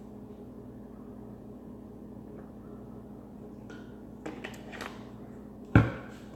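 Cookware handled in a kitchen over a steady low hum: a few light clatters, then one sharp knock near the end, like a pan or utensil set down hard.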